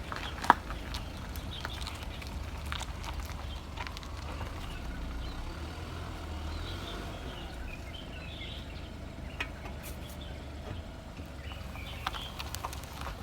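BMW F10 with a steady low rumble and scattered clicks and knocks from the front end, a sharp click about half a second in: the abnormal noise it makes after turning.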